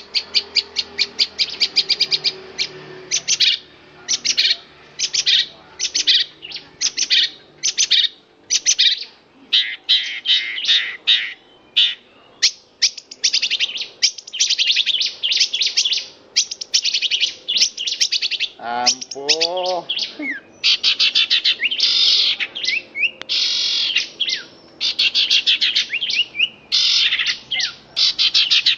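Long-tailed shrike (cendet) singing on and on in rapid, high chattering phrases with only short breaks: the sustained 'ngerol' song. About two-thirds of the way through, a brief lower, wavering call sounds beneath it.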